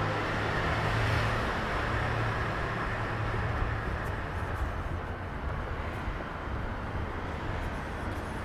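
Steady city street traffic noise, with the low hum of a motor vehicle running close by that eases slightly after the first couple of seconds.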